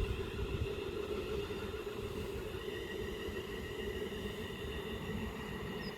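Pair of Class 350 Desiro electric multiple units standing at the platform, their electrical equipment humming steadily with a low rumble and faint high whines.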